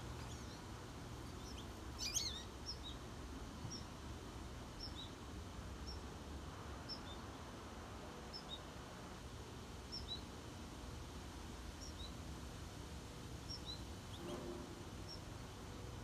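Small songbird giving short, high chirps over and over, a higher note and a lower one roughly every second, with a louder flurry of chirps about two seconds in, over a faint low background rumble.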